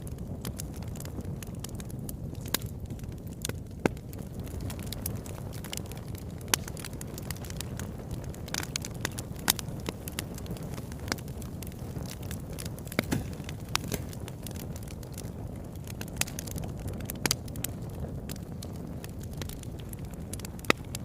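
Wood fire burning in a fireplace: a steady low rumble of flames with frequent irregular crackles and pops, a handful of them louder, sharper snaps.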